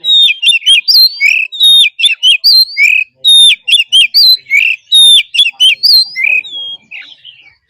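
Oriental magpie-robin singing loudly: quick repeated phrases of clear whistles and sliding notes, the song thinning out to a few scattered notes near the end.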